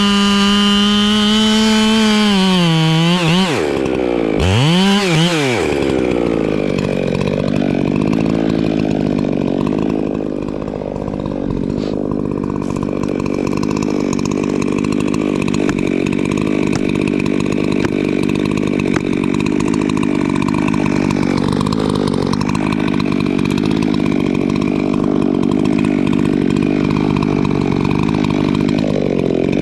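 Echo two-stroke chainsaw running at full throttle, then the throttle is let off and blipped once about four seconds in. From about six seconds it runs steadily on a rougher, lower note under load, cutting wood.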